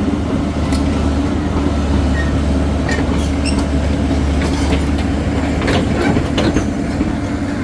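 Heavy diesel machinery, most likely an excavator, running steadily with a deep drone. Scattered sharp metallic clanks and knocks and a few short squeals sound over it.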